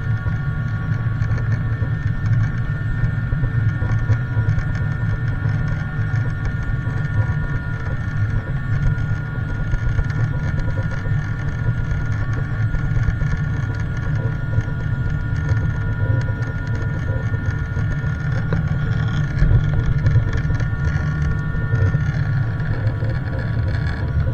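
Jet airliner engines running steadily, heard inside the passenger cabin: a heavy low rumble with a steady whine of several held tones above it.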